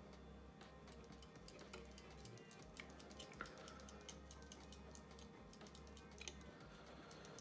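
Near silence with faint, irregular small clicks and ticks, several a second: fingers, thread and hackle fibres being worked on a hook held in a fly-tying vise.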